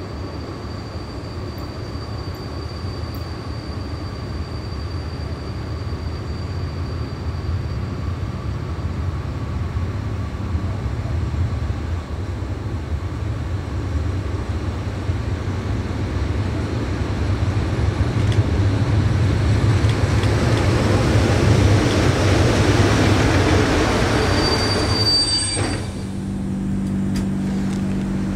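Train running on the rails, growing steadily louder over about twenty seconds, with a thin high-pitched wheel squeal. Near the end the sound changes abruptly to a steady low hum.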